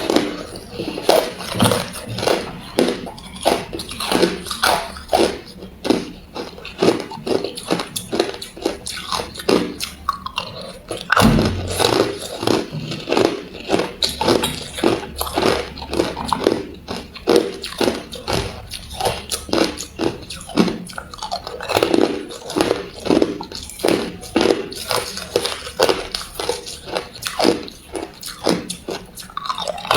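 Ice being bitten and chewed close to the microphone: a steady run of crisp crunches, about one to two a second, with a louder low thump about eleven seconds in.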